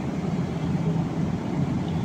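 Airliner cabin noise in flight: a steady low drone with no breaks.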